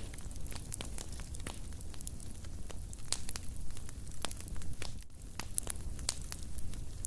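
Fire crackling in a fireplace: a rapid, irregular run of sharp pops and snaps over a low, steady rumble.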